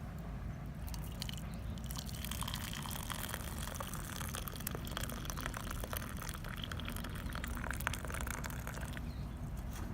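Water in a metal canteen cup over a campfire: a liquid hiss with many small clicks that starts about a second in and fades near the end, over a steady low rumble.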